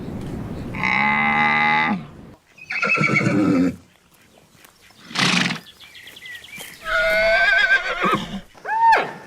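A string of short farm-animal calls, about five in all with pauses between them, among them a horse whinnying with a quavering pitch late on.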